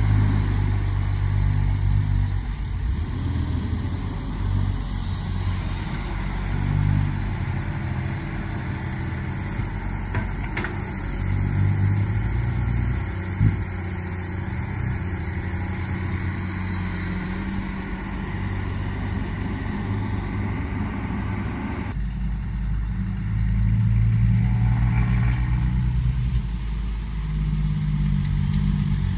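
Komatsu PC200 hydraulic excavator's diesel engine running and revving up and down as it works, with one sharp knock about halfway through.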